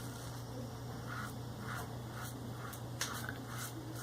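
Maggard V3A aggressive safety razor with a Shark Super Chrome blade scraping through lathered facial stubble in short strokes, about two a second, over a steady low hum.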